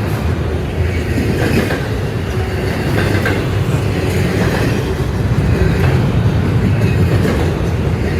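Freight train cars rolling past, a loud steady rumble with the clickety-clack of wheels over the rail joints.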